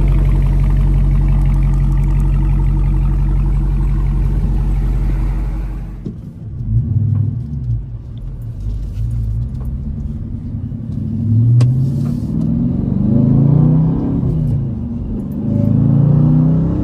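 2019 Dodge Challenger R/T's 5.7-litre Hemi V8 on its stock exhaust, idling steadily. About six seconds in it changes to driving: the engine accelerates in several surges, its pitch rising and then dropping again as it goes through the gears.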